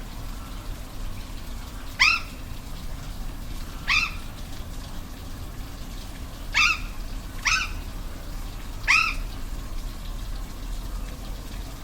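An animal calling five times over a steady waterfall rush: short, sharp cries that rise in pitch, two close together in the middle.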